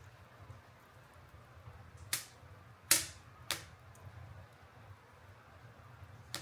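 Burning wood in a bonfire popping: four sharp cracks, the loudest about three seconds in, over a low steady rumble.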